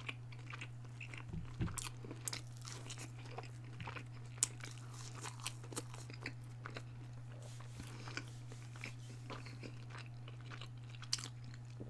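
Close-miked chewing of a breaded vegetarian chicken strip with sauce: irregular crunches and wet mouth clicks, over a steady low hum.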